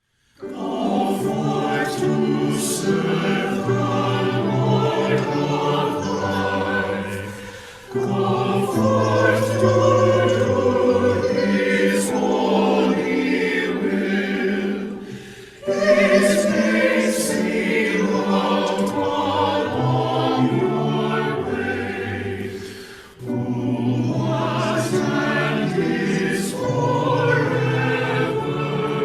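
A choir singing in sustained phrases of about seven to eight seconds, with short breaks between them.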